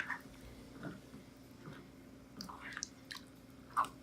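Scattered light clicks and knocks from handling a cooking pot and utensils, with a sharper knock near the end, over a faint steady hum.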